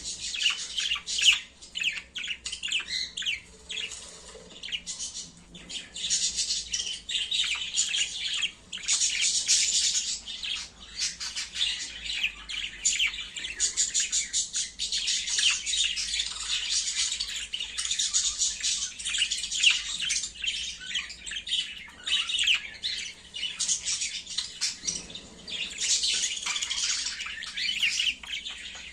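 Budgerigars chattering and warbling almost without pause: a rapid, high run of chirps and squawks that comes and goes in louder stretches.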